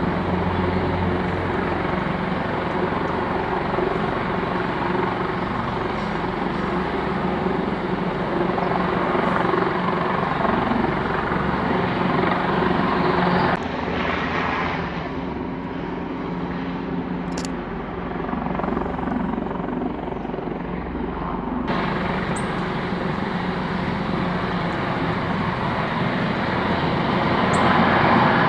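Airbus Helicopters H225M, a twin-turboshaft military Super Puma, running steadily with a loud turbine and rotor sound. About halfway through the sound turns duller for around eight seconds, then its full brightness returns and it grows louder near the end.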